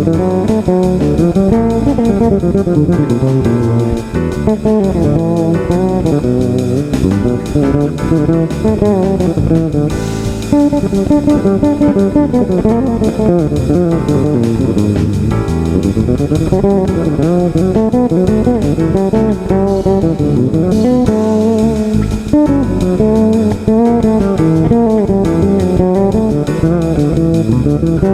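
Fretless bass guitar playing a melodic line, its notes sliding smoothly up and down in pitch.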